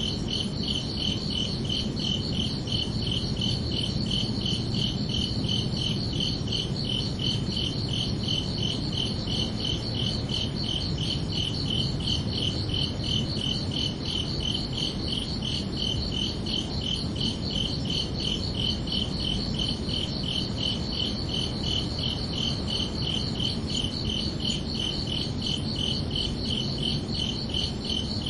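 Crickets chirping in a steady, unbroken chorus of rapid, evenly repeated high-pitched pulses, over a low background rumble.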